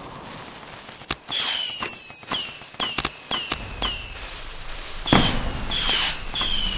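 Fireworks going off in a rapid series of sharp bangs, about ten in all, starting about a second in; most bangs are followed by a short falling whistle, and the last few are the loudest.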